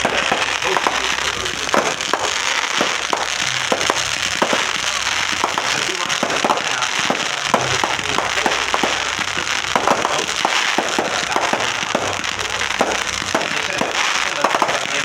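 Consumer fireworks going off: a dense, unbroken run of sharp pops and crackles, several a second.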